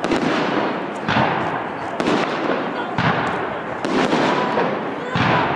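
Aerial firework shells bursting in a steady barrage, about one loud bang a second, each followed by a trailing crackle.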